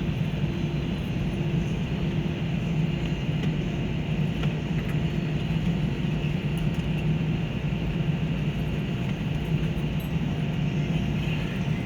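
Steady airliner cabin hum after landing: a constant low drone with a fainter hiss above it.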